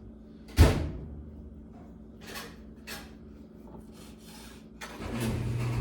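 Fillet knife cutting raw chicken breast on a cutting board: one loud knock of the blade against the board about half a second in, then a few quieter taps and slicing sounds.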